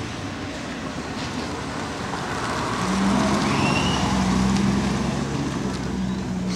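A car engine running as the car drives past, growing louder to a peak in the middle and then easing off.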